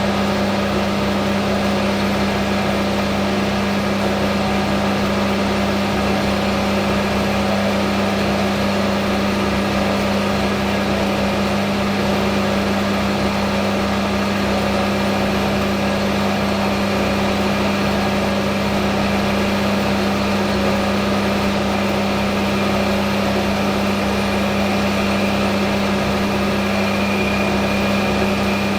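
Hafco Metal Master AL960B metal lathe running steadily, a constant machine hum with a strong low tone and several fainter steady tones above it.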